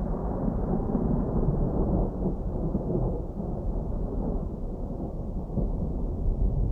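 Distant thunder: a continuous low rolling rumble that grows slowly duller.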